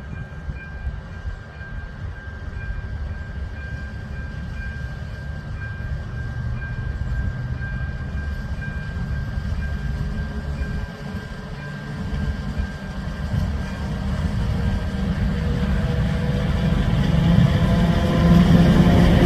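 A railway locomotive running with a low rumble that grows steadily louder, with a thin steady high whine through most of it. Whining tones rise in pitch over the last few seconds.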